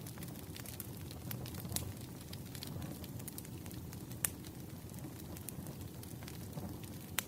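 Wood fire crackling: a steady low rumble with frequent sharp pops and snaps, the loudest about four seconds in and near the end.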